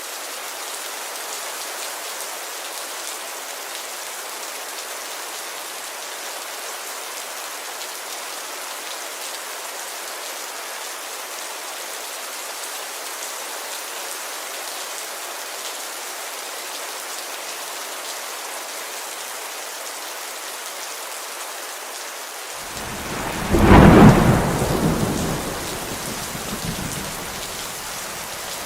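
Steady rain falling on a window. Near the end a loud rumble of thunder breaks in suddenly, peaks, and dies away over a few seconds.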